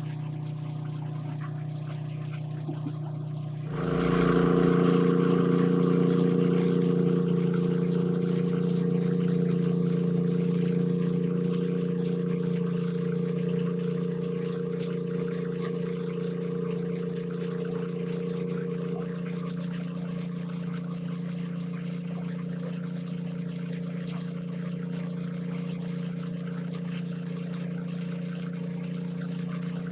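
A small engine running steadily at one speed, getting louder about four seconds in and then slowly easing off.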